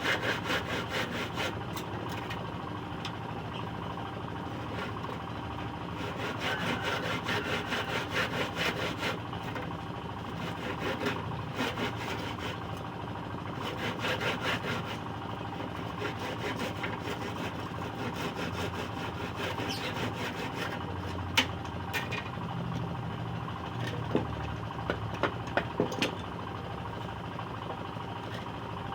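Saw cutting scrap wood in several spells of rapid back-and-forth strokes, then a handful of sharp knocks on wood past the middle, over a steady low hum.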